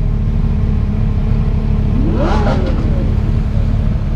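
A supercar engine revs once about two seconds in, its pitch climbing sharply and dropping back within a second, over a heavy, steady low rumble.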